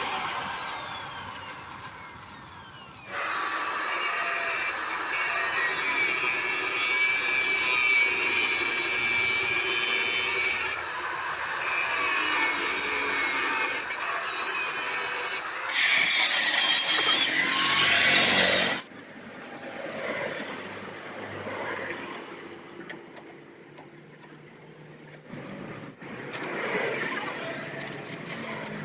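Angle grinder with a metal cutting disc running at speed: a loud, high-pitched whine with rough grinding noise from about three seconds in, cutting off suddenly about two-thirds through. It opens with a falling whine fading away, and ends with quieter, irregular handling noises.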